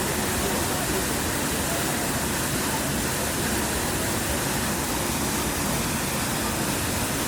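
Steady rushing roar of a waterfall, a constant wash of water noise that does not change.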